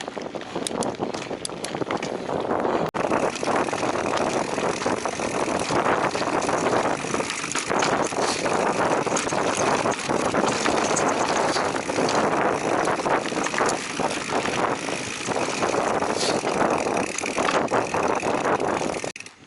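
Giant Trance Advanced Pro mountain bike riding fast over a rough dirt trail: tyre noise and a steady clatter of the bike rattling over bumps, with wind on the microphone. It gets louder about three seconds in and drops off suddenly near the end.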